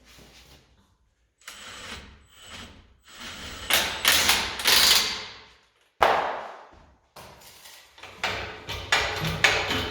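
Hand work on a car in a workshop: irregular mechanical clattering and knocks from tools and parts, in several short bursts with sharp starts.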